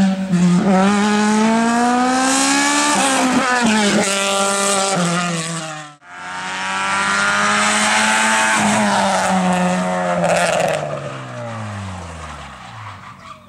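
Race car engine at full throttle, its pitch climbing with a gear change about three seconds in. After an abrupt cut about halfway, another race car runs past at high revs, its pitch falling as it fades away.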